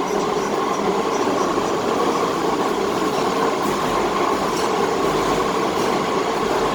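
Docklands Light Railway train running at speed, heard from inside the carriage: a steady rumble and hum of wheels on rails, carried through the tunnel under the Thames between Island Gardens and Cutty Sark.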